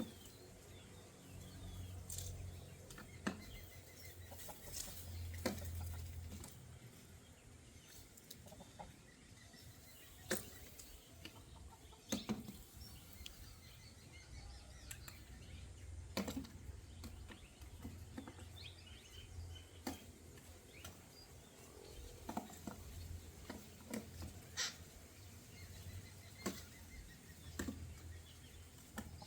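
Birds moving about and calling softly, with scattered sharp clicks and taps every second or two and a low rumble underneath.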